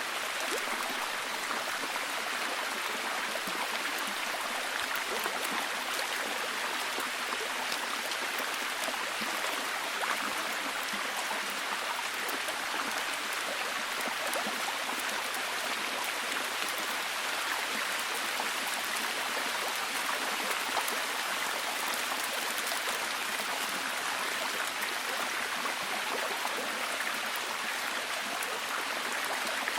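Steady heavy rain, an even hiss of water with many small drop ticks throughout.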